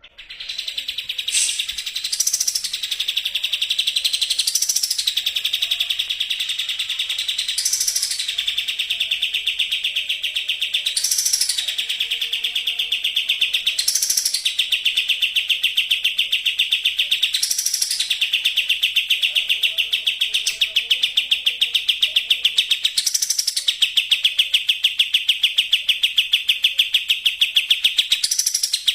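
A kapas tembak songbird singing a rapid, unbroken trill in the fast 'racing' style, with a higher rising note breaking in about every two to three seconds.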